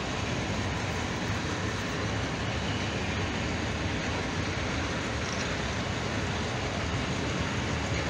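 Long freight train of Eaos open coal wagons rolling past on the track, a steady noise of wheels running on rails.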